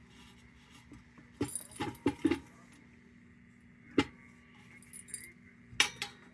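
Metal parts of a Perfection No. 530 kerosene heater clinking and clicking as they are handled and fitted back together: a short cluster of clinks a little over a second in, one sharp click about four seconds in, and two more near the end.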